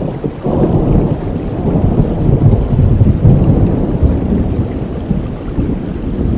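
Steady rain with a low rumble of thunder that swells about half a second in and slowly eases.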